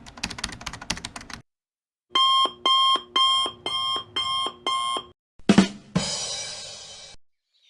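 Sound-effect clips in a row: computer-keyboard typing that stops about a second in, then a synthetic alarm-clock beep repeating about twice a second, six times. Near the end, a sudden hit that dies away over about a second and a half.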